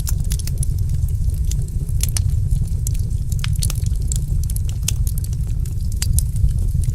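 Fire in a fireplace crackling, with many irregular sharp pops and snaps over a steady low rumble.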